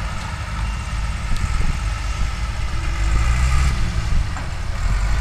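Bulldozer's diesel engine running steadily and loudly, with a low, even drone.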